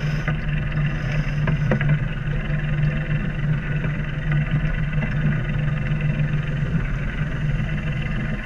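Sailboat's inboard engine running steadily under way, a constant low hum with a few faint ticks over it.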